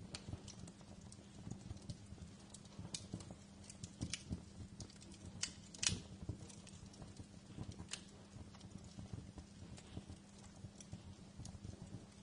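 Wood fire in a fireplace crackling, with irregular small pops and snaps, one sharper pop about halfway through, over a steady low hum.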